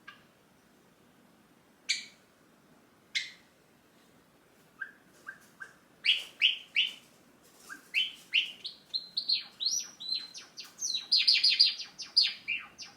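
Java sparrow calling with a few sharp single notes, then breaking into song. From about halfway through, its notes come faster and faster and run together into a rapid chattering run near the end.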